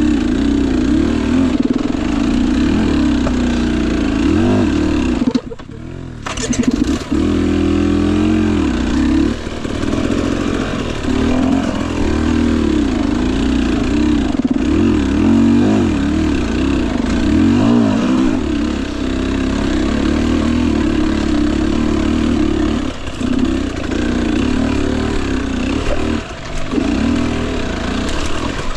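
Husqvarna TE 250i fuel-injected two-stroke dirt bike engine being ridden on the trail, its pitch rising and falling with the throttle. The engine note drops away briefly about five seconds in, then picks up again.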